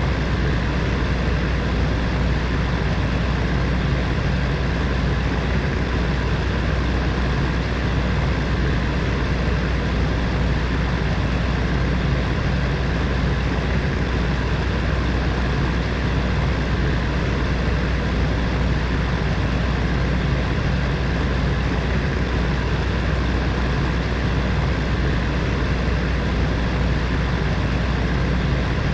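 Electric heater fan running steadily: a constant low hum with an even whooshing rush of air over it, unchanging throughout.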